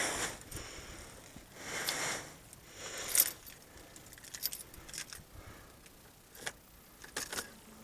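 Keys jangling and rustling as a person settles into a car's driver's seat, with a few short sharp clicks later on. The engine is not running yet.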